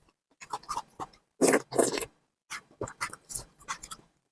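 A person chewing and making mouth noises while eating, in short irregular bursts with brief pauses between them.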